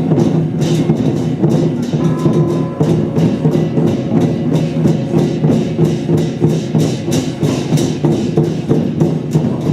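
Lion-dance percussion band playing: drum and cymbals struck in a fast, dense, unbroken rhythm over a ringing low tone.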